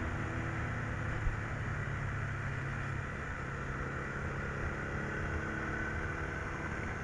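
Vehicle engine running steadily under a constant hiss of wind and road noise.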